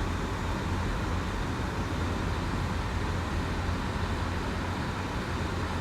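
Steady road noise inside a moving car's cabin: a low engine and road rumble with a hiss of tyres, unchanging throughout.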